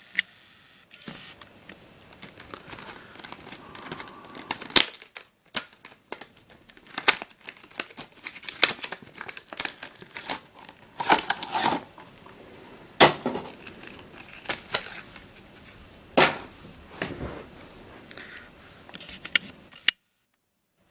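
Packaging of a puzzle cube being opened by hand: plastic wrapping crinkling and tearing, with scattered sharp clicks and knocks as the box and puzzle are handled. The sound cuts off suddenly about a second before the end.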